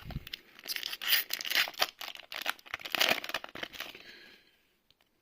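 Foil booster pack wrapper being torn open and crinkled by hand: about four seconds of irregular crackling and tearing that stops shortly before the end.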